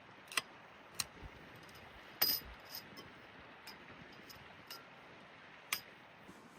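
Several sharp, light clinks of small hard objects knocked together, irregularly spaced, the loudest a little after two seconds in, over a steady faint hiss.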